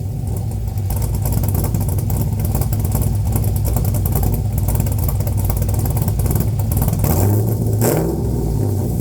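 Chrysler 440 big-block V8 running on open dual exhaust with no catalytic converters, a deep steady rumble as it warms up after a cold start. About seven seconds in it swells briefly, then settles back.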